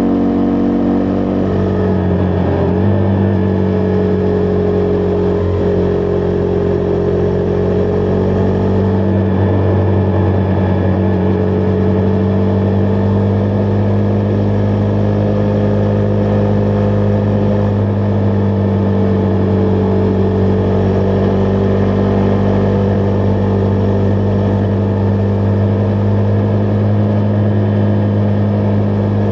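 Husqvarna Vitpilen 401's single-cylinder engine running at steady road speed. Its note shifts about two seconds in, then holds steady with slight slow rises and falls.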